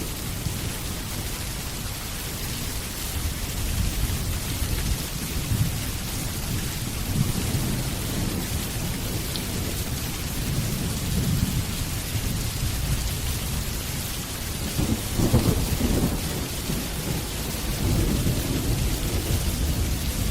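Steady rain hissing, with low rolling rumbles of thunder beneath it; the loudest rumble swells about three-quarters of the way through.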